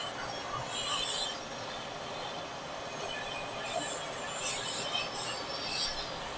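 Scattered short, high-pitched metallic squeaks and scrapes of metal parts being handled during work on an air-cooled VW engine's gear train.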